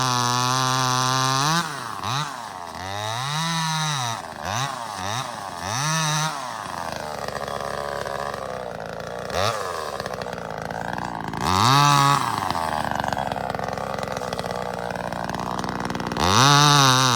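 Small 25cc two-stroke engine of a top-handle clone chainsaw, held at full throttle, then let off with several quick throttle blips. It drops to a rough idle, gives one short rev about two thirds of the way through, and goes back to full throttle near the end.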